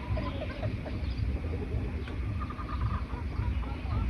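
Several birds chirping and singing with short, repeated calls and trills, over a steady low rumble.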